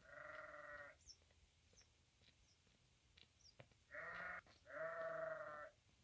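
Livestock bleating: three bleats, the first about a second long, then two close together near the end, the last the longest.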